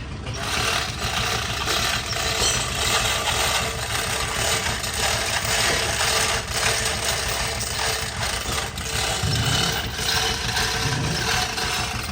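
An engine running steadily at idle, with rattling and short knocks over a constant low rumble.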